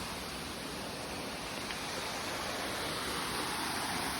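Steady rush of a waterfall, water pouring and splashing without a break.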